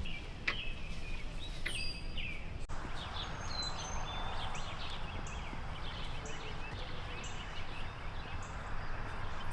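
Birds chirping over a steady low outdoor background noise. From about three and a half seconds in, one short high note repeats roughly once a second.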